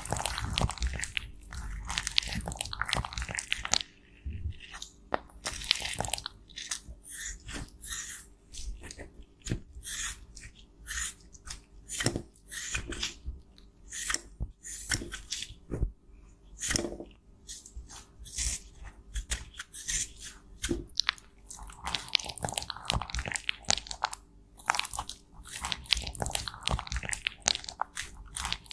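Pressed makeup powder being crushed and scraped, a dense run of short, irregular crunches and gritty scrapes.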